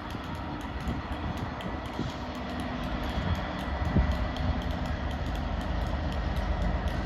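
A train running on the line: a steady rumble that grows slowly louder, with a couple of short knocks about two and four seconds in.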